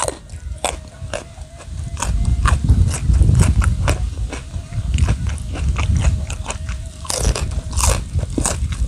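A person chewing and crunching crisp food close to the microphone, with quick crackly bites several times a second and a louder crunch near the end.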